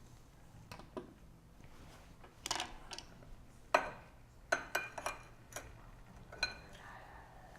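Metal clinks and knocks as a stainless espresso portafilter and its filter basket are handled, about seven sharp strikes from a few seconds in, a couple ringing briefly.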